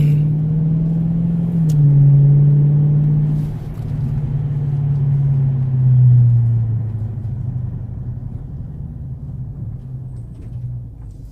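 Dodge Charger Daytona 392's 6.4-litre Hemi V8 heard from inside the cabin, pulling away with the engine note climbing and stepping down twice at upshifts. About six seconds in, the note falls and grows quieter as the car slows to pull over.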